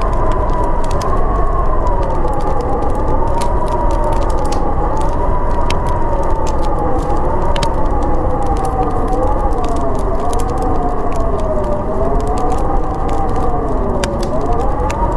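Howling wind, a wavering whistle that slowly rises and falls in pitch over a steady rush. A wood fire crackles through it in scattered sharp pops.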